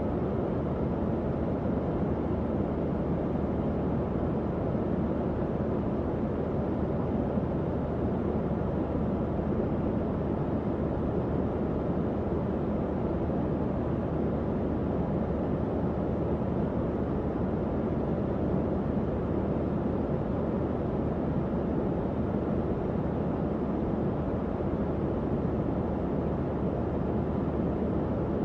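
Tower fan running steadily: an even, low whooshing air noise with a faint hum underneath, unchanging throughout.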